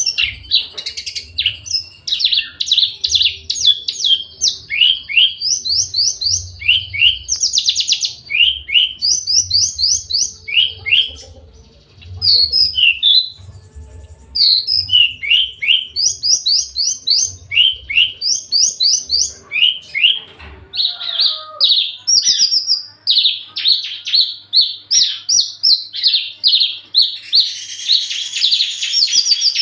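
Javan bush lark (branjangan) singing a fast, varied song of quick chirping trills and sliding notes, almost without a break, with a short lull about eleven seconds in; a male in strong breeding condition, calling for a mate.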